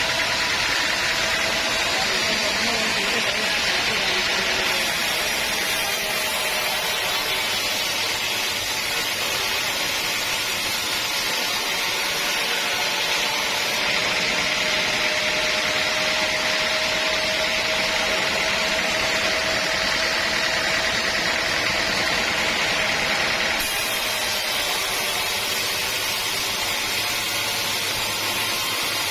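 Sawmill saw running steadily through a teak log, a continuous hissing mechanical whine with a faint steady hum underneath; the tone of the hiss changes about five seconds before the end.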